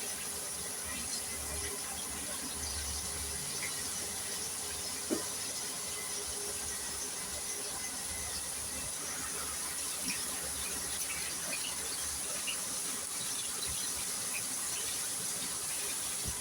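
Chicken thighs frying in hot oil: a steady sizzle with scattered small pops and crackles.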